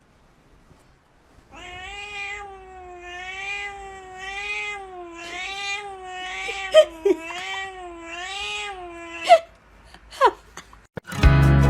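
A cat giving one long, drawn-out yowl of about eight seconds, its pitch wavering up and down. A few sharp clicks follow, then music starts near the end.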